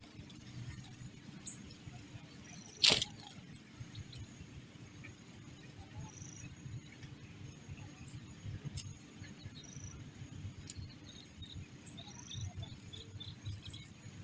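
Faint, high-pitched chirping that repeats irregularly over a low rumble, with one sharp knock about three seconds in.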